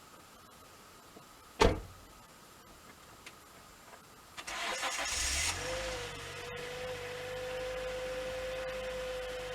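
A single loud thump, then a car engine cranked over by the starter for about a second, catching and settling into a steady idle with a steady hum over it, heard from inside the car. It is a cold start on a freezing winter day.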